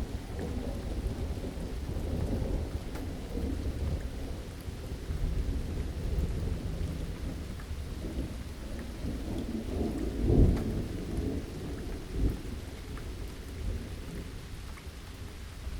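Rain falling during a thunderstorm, with low rolling thunder under it. A louder rumble swells about ten seconds in and a shorter one follows soon after, over faint scattered raindrop ticks.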